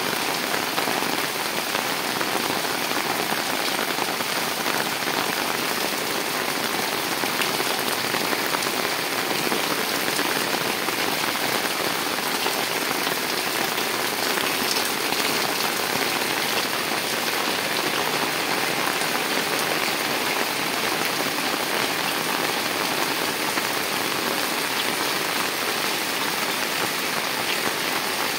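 Steady rain falling: an even hiss of many drops, with the small ticks of single drops striking a surface.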